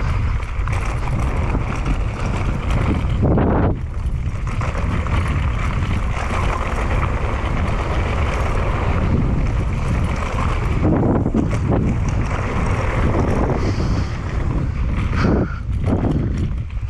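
Wind rushing over the microphone of a camera on a downhill mountain bike, with a steady rumble. Tyres run over dirt, and the bike knocks and rattles over bumps now and then.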